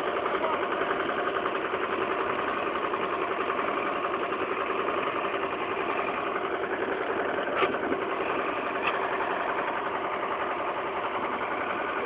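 1755 tractor engine idling steadily with a fast, even firing beat, shortly after a cold start from two weeks of sitting. Two faint clicks come about halfway through.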